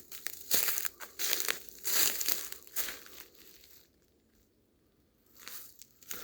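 Footsteps crunching through dry fallen leaves, about one step every 0.7 seconds. The steps stop for about two seconds midway, then start again.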